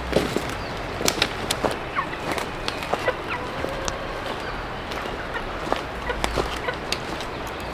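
Chickens clucking, with scattered short sharp clicks and rustles throughout.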